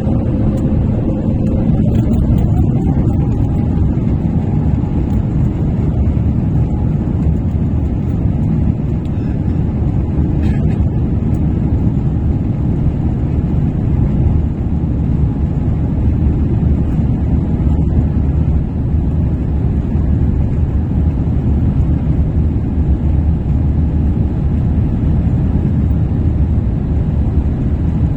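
Airbus A350 jet engines running at high power, a steady loud rumble with a whine that rises in pitch about two to four seconds in as the engines spool up for the takeoff run.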